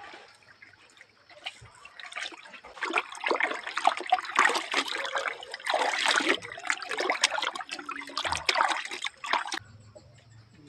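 Water pouring and splashing for several seconds, with much spattering, starting about two seconds in and stopping suddenly near the end.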